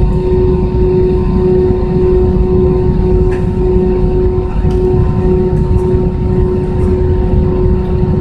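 Steady cabin rumble inside an Airbus A320 on the ground before takeoff, with a constant whine from the engines over it.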